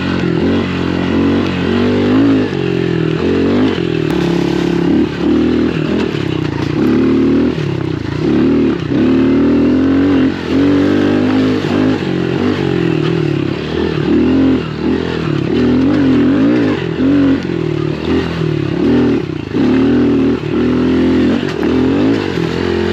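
Small 110cc pit bike engine revving up and down over and over as the throttle is worked on and off through soft sand.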